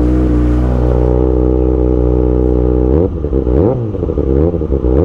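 Kawasaki ZX6R 636 inline-four with an Austin Racing GP1RR exhaust sitting at a steady, fast cold idle. From about three seconds in, a few quick throttle blips make the pitch rise and fall several times.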